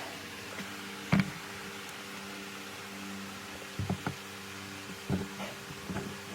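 A steady hum with a few short, sharp knocks; the loudest knock comes about a second in, with a quick pair near the middle and more toward the end.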